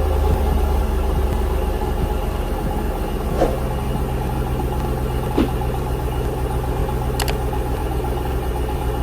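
Chevrolet Impala SS's LT1 V8 idling steadily, with a few faint clicks over the rumble.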